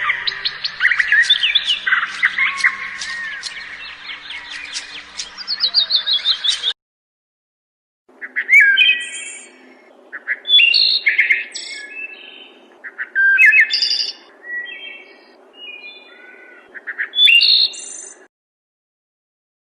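Two bird sound-effect clips back to back. First a dense chorus of birds chirping and trilling that cuts off suddenly, then after a short gap a series of separate, louder bird calls and squawks over a faint steady background, stopping abruptly.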